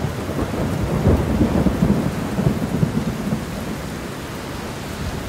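Strong storm wind buffeting the microphone in a blizzard: a dense, rumbling roar of noise with irregular gusty surges, strongest in the first few seconds.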